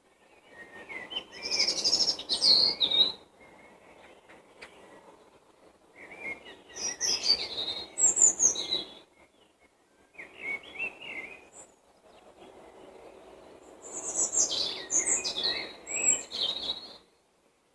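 A songbird singing in separate warbling phrases of a few seconds each, four in all, with short pauses between them.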